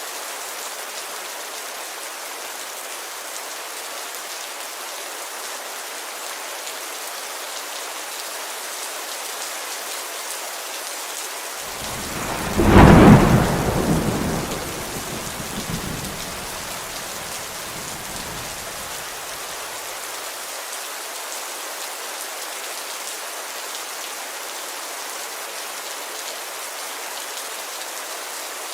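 Steady rain falling on a window, an even hiss throughout. About twelve seconds in, a loud clap of thunder breaks and rumbles away over the next several seconds.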